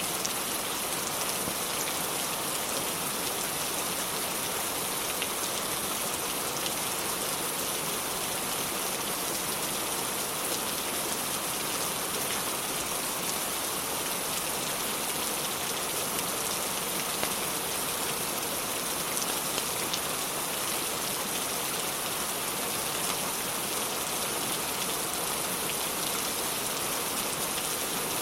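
Steady rain falling, an even hiss with faint scattered ticks.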